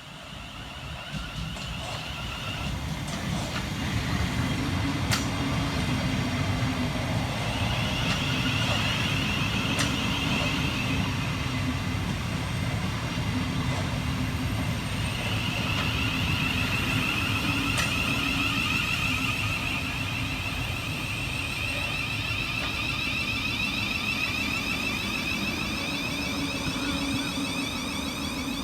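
Siemens Class 700 Thameslink electric multiple unit running through the station: the rumble of the train builds over the first few seconds and then holds steady, with a steady high whine over it and a few sharp clicks.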